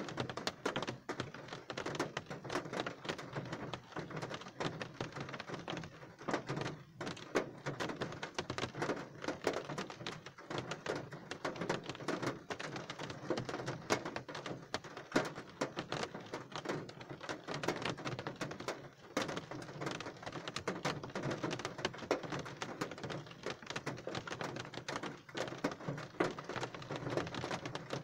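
Rain falling: a dense, irregular patter of individual raindrops striking close by.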